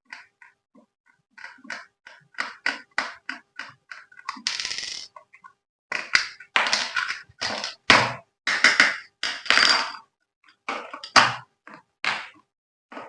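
Hands handling packaging and toy parts: a run of quick clicks and taps, a short rasp about four and a half seconds in, then longer, louder crinkling bursts.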